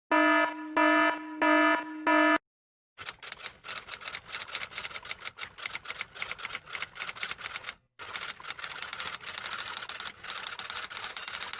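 Four short electronic beeps, evenly spaced, then a pause and a long run of rapid typing clicks, like fast keystrokes on a typewriter or keyboard, with one brief break.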